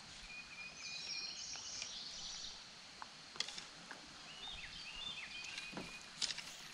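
Faint outdoor ambience with a songbird singing two phrases of short high notes, one about a second in and one around the middle. A few sharp clicks come in between, the loudest near the end.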